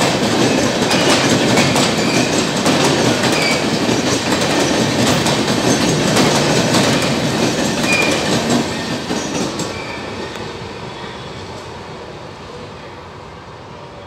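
Passenger coaches of an express train passing at speed, their wheels clattering over rail joints, with a few brief wheel squeals. About nine seconds in, the clatter begins to fade as the last coach moves away.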